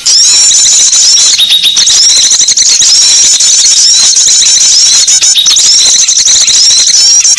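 Dense chorus of many small songbirds chirping and twittering rapidly in high, short notes without pause, a loud bird-lure (pikat) recording meant to draw small birds in.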